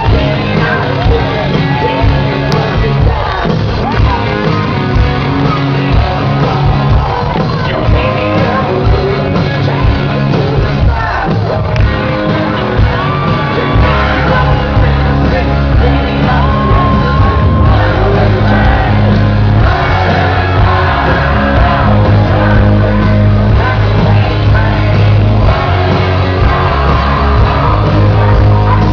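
Live hard rock band playing loudly, with shouted vocals over the guitars. About halfway through, the low end fills out into a steady, heavy pulse as the full band drives on.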